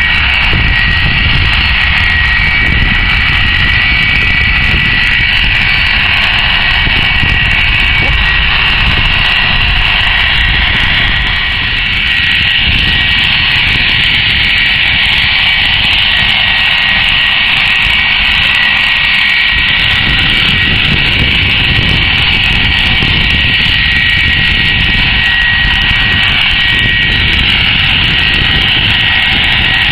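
Airbus A330-300 airliner's twin jet engines running loud and steady: a high whine over a low rumble.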